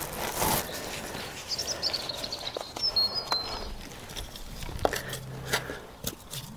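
A small bird chirping a few short notes near the middle, over scattered clicks and knocks from hands working in the garden.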